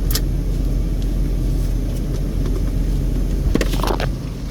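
Steady low rumble of a stopped car's idling engine heard from inside the cabin, with a sharp click at the start and a short run of clicks and rattling about three and a half seconds in, after which the sound drops in level.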